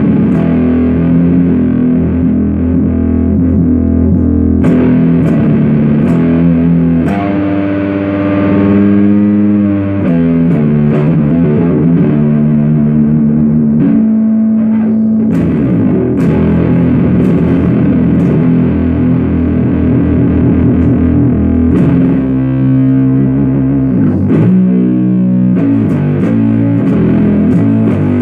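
Heavily fuzzed low riff played through a 77 Fuzz Blender fuzz pedal into an Orange Super Crush 100 amp: a slow line of long held notes that change every few seconds, dark-toned and thick in the low end.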